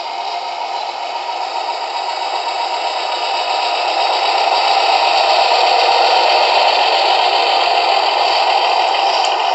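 MTH Bikini Car Wash model accessory running its wash cycle: a steady, noisy hiss of its wash sound effects together with the rattle of its small motor-driven mechanism, swelling slightly about halfway through.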